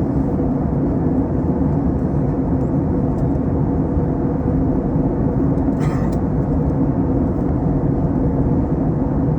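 Airbus A321 cabin noise in flight: a steady drone of engines and airflow with a low hum. A brief rattle sounds about six seconds in.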